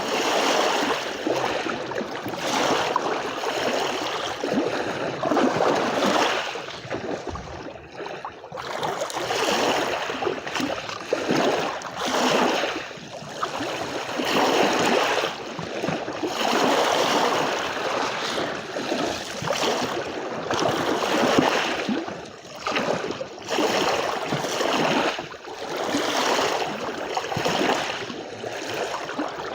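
Sea waves washing onto a beach: a continuous rush of water that surges and ebbs every second or two, with a brief lull about eight seconds in.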